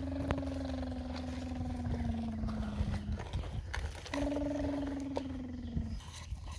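Heavy diesel engine of an excavator or dump truck working under load: a low rumble with a strong droning note that sags in pitch twice as the engine labours, cutting out around three seconds in and again about six seconds in.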